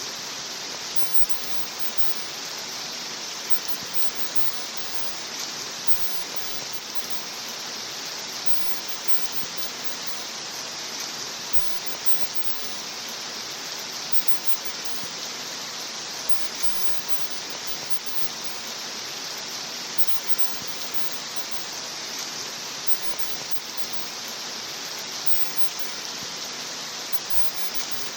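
Steady rain, an even unbroken hiss with no single drops or pauses standing out.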